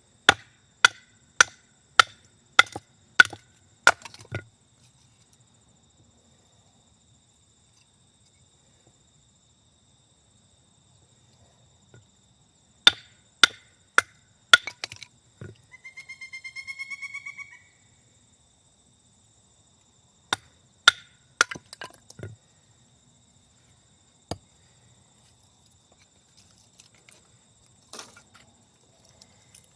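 Sharp wooden chops from a hatchet splitting firewood: a quick run of about eight blows, then a run of four, then a few more blows scattered later. A short, rapid trilling call sounds between the runs, over a faint steady high whine.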